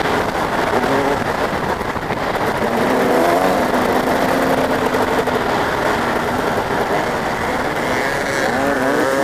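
Motocross bike engines running hard over a steady wash of noise, their pitch rising and falling as they rev and ease off, with another rising rev near the end.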